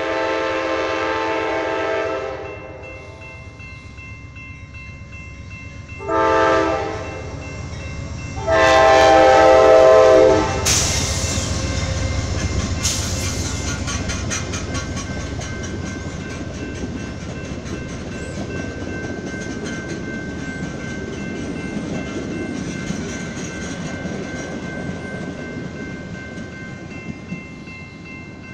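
An Amtrak GE Genesis diesel locomotive hauling a Talgo trainset sounds its horn for a grade crossing: a long blast, a short one, then a final long, loudest blast. Then the locomotive passes close by with its engine rumbling, and the articulated Talgo cars roll past with wheel clatter that slowly fades.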